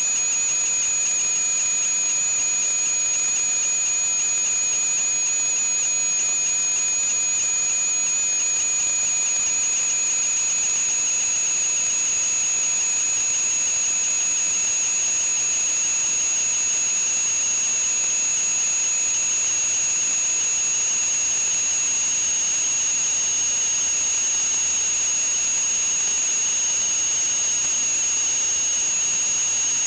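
Steady hiss with a high, thin electronic whine over it and a second, lower whine that creeps slightly upward in pitch partway through.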